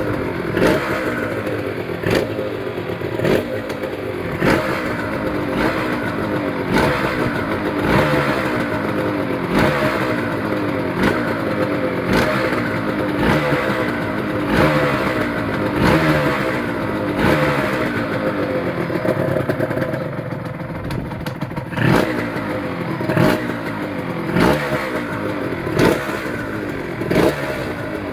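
Honda NSR two-stroke motorcycle engine running, its throttle blipped over and over so the revs rise and fall about every second and a half, as it is run after standing unused for a long time.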